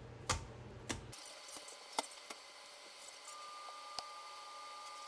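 A few sharp clicks and taps of a spoon on a baking pan. A low hum cuts off about a second in, and a faint steady high tone starts about three seconds in.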